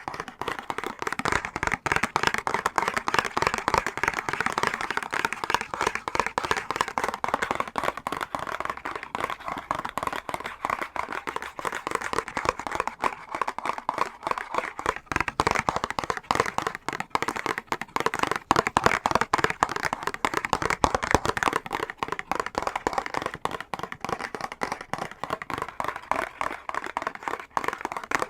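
Fingernails tapping and scratching fast on a box, a dense, unbroken stream of quick clicks.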